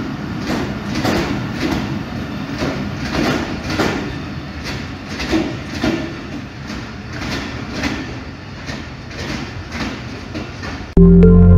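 Passenger train coaches rolling past on the track, their wheels clicking over the rail joints about twice a second as the end of the train draws away. Loud music cuts in suddenly near the end.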